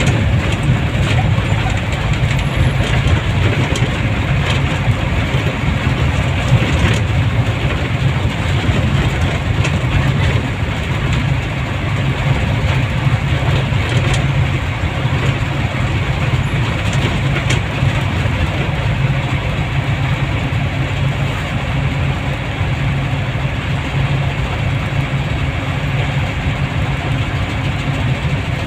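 Steady running noise of a moving road vehicle: engine drone and road noise, with no break or change.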